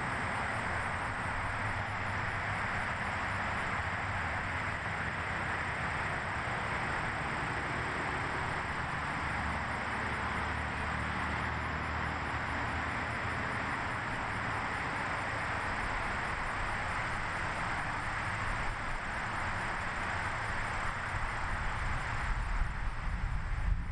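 Steady rushing noise with a low rumble underneath, even throughout and getting slightly unsteady near the end.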